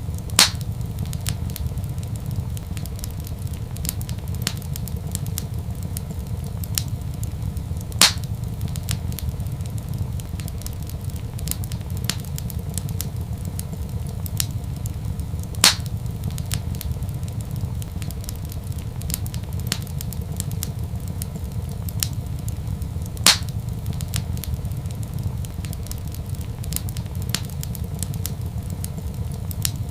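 Wood fire crackling in a fireplace over a steady low rumble, with many small crackles and four louder pops, about one every seven to eight seconds.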